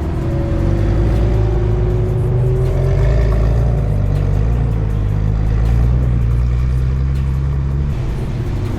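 Car engines running at a car meet, with slow rises in engine pitch, mixed with bass-heavy music.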